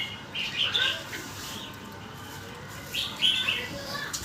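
Red-whiskered bulbul singing: two short, quick warbled phrases, one about half a second in and another about three seconds in.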